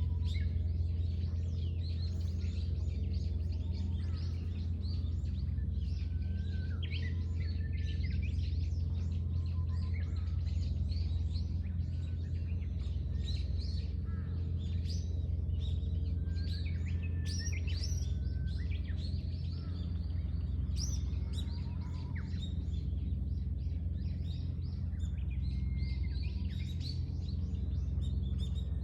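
Many small birds chirping and calling, short overlapping chirps and trills throughout, over a steady low hum.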